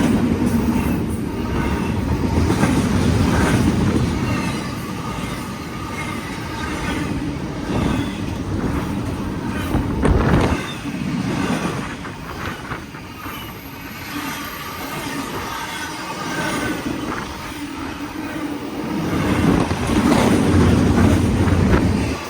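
BNSF intermodal freight train rolling past: a continuous low rumble of wheels on rail, with high wheel squeal and clacking over rail joints. It swells about ten seconds in and again near the end.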